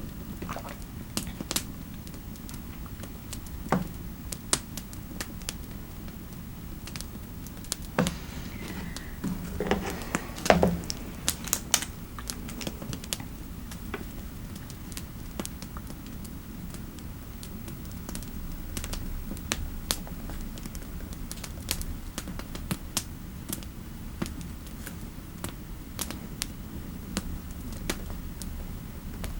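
Typing on a computer keyboard in scattered, irregular keystrokes, with a busier run of louder key presses about nine to eleven seconds in, over a steady low fireplace ambience.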